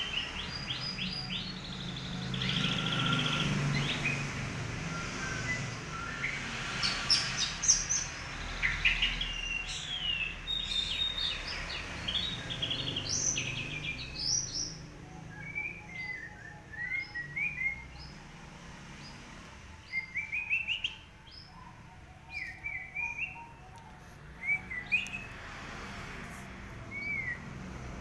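White-rumped shama (murai batu) singing in quick strings of short chirping notes, then sparser short rising phrases. This is a bird whose plumage is in poor, moulting condition, and in that state it gives only a monotonous song.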